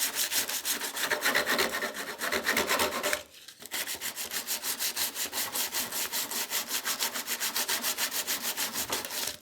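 A sheet of metal being sanded by hand in quick, even back-and-forth strokes, several a second, with a short break about three seconds in. The strokes stop abruptly at the end.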